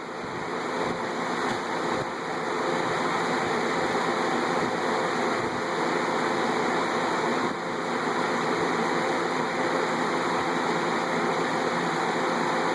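Lakewood box fan with a braced blade running on high speed: a steady rush of moving air with a steady motor hum underneath.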